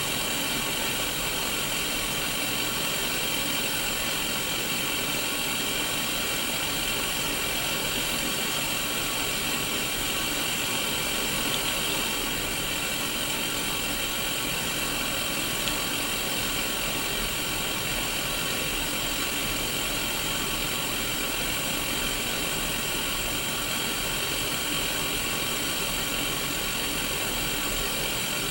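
Static hiss from the small speaker of a Sony Mega Watchman portable black-and-white CRT television tuned to an empty channel, holding steady throughout.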